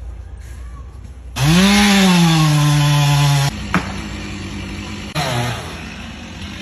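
Chainsaw revved hard about a second and a half in, its engine note rising then holding steady for about two seconds before cutting off abruptly. A short click follows, and near the end a second brief rev drops away in pitch.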